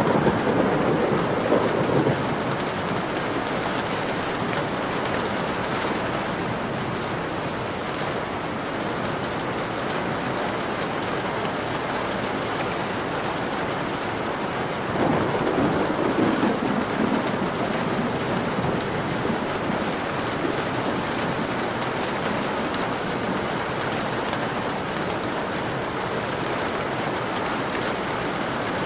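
Steady heavy rain falling on a window, with fine drop ticks through it. Thunder rumbles twice, once at the start and again about halfway through.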